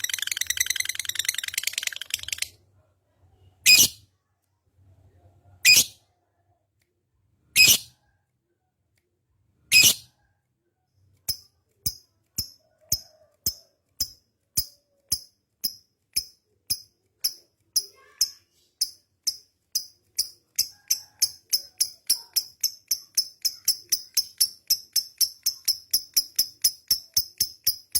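Lovebird calling. A rapid chattering trill, its 'ngekek', ends about two seconds in. Four loud single chirps follow about two seconds apart, then a string of short sharp chirps that speeds up steadily to about three a second.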